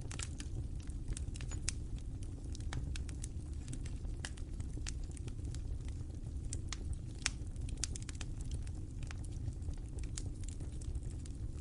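Wood fire in a fireplace crackling: irregular sharp pops and snaps over a steady low rumble of the flames, with a louder pop about seven seconds in.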